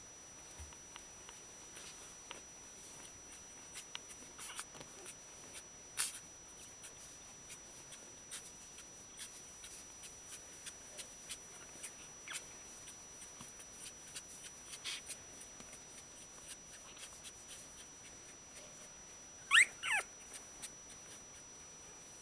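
One-week-old Shiba Inu puppies making faint scattered clicks and small squeaks, then two short, loud, high squeals that slide in pitch near the end.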